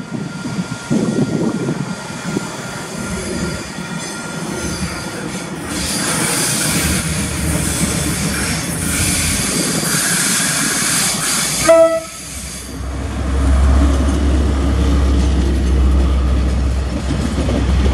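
KiwiRail DL class diesel-electric locomotive hauling a container freight train around a curve. Its engine runs while the wheels squeal high-pitched on the curve for several seconds. A short horn blast comes about twelve seconds in, followed by the steady low rumble of the container wagons rolling past.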